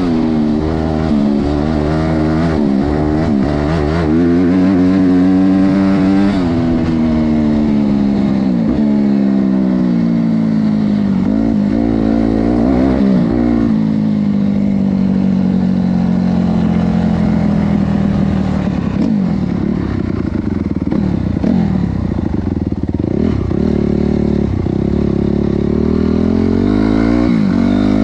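Honda CRF250R's single-cylinder four-stroke motocross engine, opened up and backed off again and again. The pitch keeps climbing and dropping, holds fairly steady for a few seconds in the middle, then rises and falls again.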